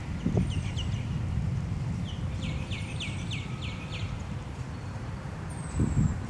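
A bird calling a quick series of about five downward-sliding chirps in the middle, with thin high whistled notes near the start and near the end. Under it runs a steady low rumble of wind on the microphone, with a couple of short low thumps.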